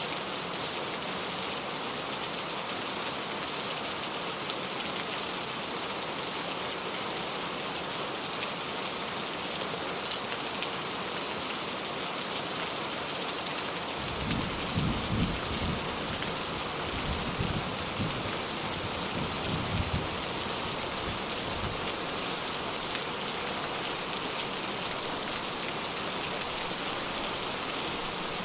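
Steady heavy rain. Partway through, a low rumble of thunder swells several times for about eight seconds, then fades.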